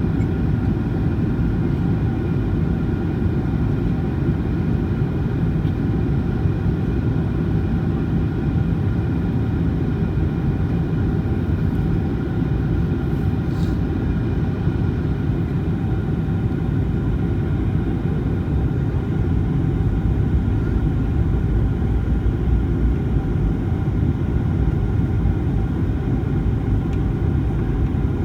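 Steady cabin noise of a Boeing 737-900ER in flight: a low rumble of airflow with the even whine of its CFM56-7B engines, unchanging throughout.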